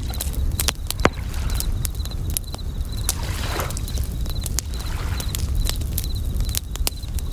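Campfire crackling with frequent sharp pops over a low rumble, while bell crickets (suzumushi) trill in short, high, repeated chirps. A soft wave washes in about three seconds in.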